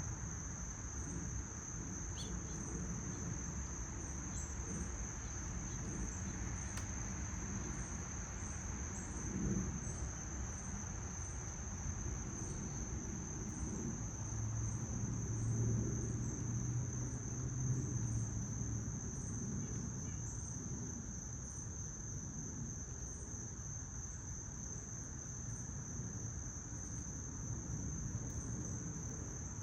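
Insects trilling in one continuous high, steady note, over a low outdoor rumble; a low hum rises and fades in the middle.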